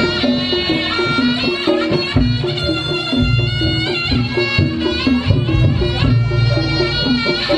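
Reog Ponorogo gamelan ensemble playing: a shrill, sustained slompret (shawm) melody over a repeating two-note gong figure and deep drum and gong strokes.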